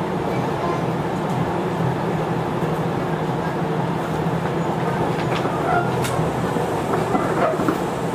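Interior running noise of a Sotetsu old 7000 series electric train motor car with a Hitachi GTO-VVVF inverter: steady wheel-on-rail rumble and a low hum. A few short squeaks and clicks come in the second half.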